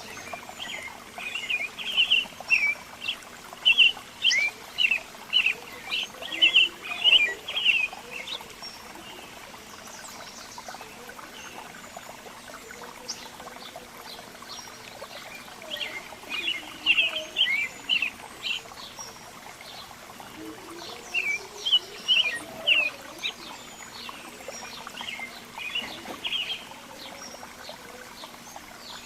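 Small songbirds chirping in rapid bursts of short, high calls, with quieter gaps between the bursts, over a steady faint background hiss.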